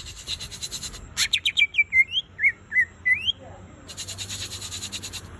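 Green leafbird (cucak ijo) singing: rapid chattering runs, then a string of loud, short whistled notes sweeping upward around the middle, then chattering again.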